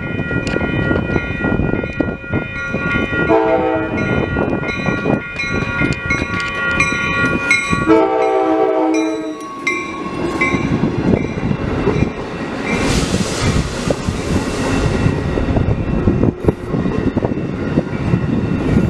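An Amtrak Downeaster passenger train sounds its locomotive horn in chord blasts over the first ten seconds or so while rolling by. Afterwards the train's steady rumble and wheel clatter continue, with a hiss about 13 to 15 seconds in.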